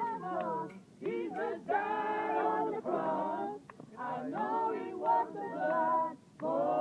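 Unaccompanied singing led by women's voices, in sung phrases broken by short pauses.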